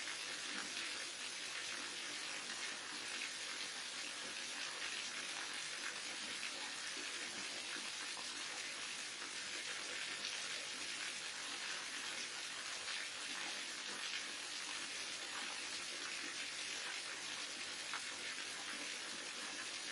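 Waterfall: a steady rush of falling, splashing water, even in level, with small splashes flecked through it.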